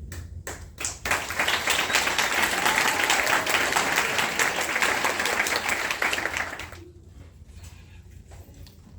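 Audience applauding: a few scattered claps, then a full round of applause from about a second in that dies away about six seconds later.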